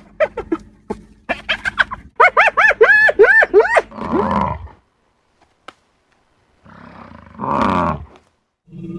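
Animal calls: a fast series of short, repeated arching cries in the first four seconds, then after a pause a short, loud, harsh roar-like call near the end.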